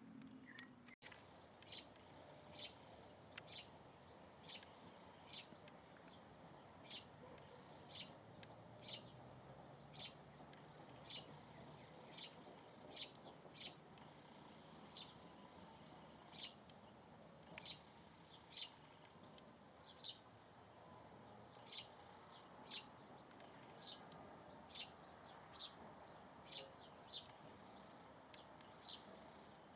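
A bird repeating a short, high, slightly falling chirp a bit more than once a second, sometimes in quick pairs, over a faint steady background hiss.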